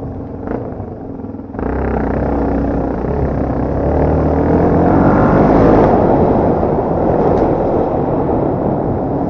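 Dirt bike engine running under throttle, its pitch rising and falling with the revs. About a second and a half in it jumps sharply louder as the throttle opens.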